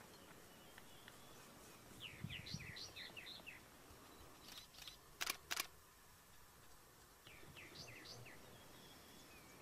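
Wild bird calls: two quick runs of short, high chirping notes, about two seconds in and again near eight seconds, over faint outdoor background noise. Two sharp clicks sound a little after five seconds.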